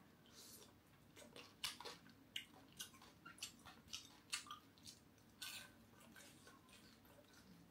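Soft, irregular crunching and crackling of a mouthful of crispy fried dried cá dứa (catfish) belly being chewed close to the microphone.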